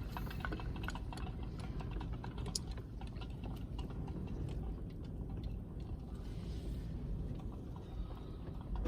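Wind rumbling steadily around a parked car, with scattered light irregular ticks and clicks over it.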